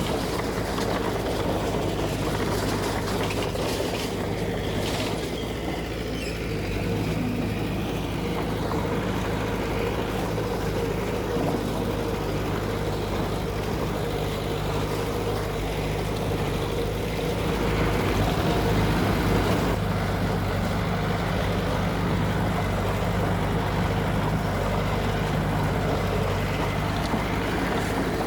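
Heavy diesel earthmoving machinery running steadily, its engine holding an even low note, with a few faint clanks early on and a slight rise in level about two-thirds of the way through.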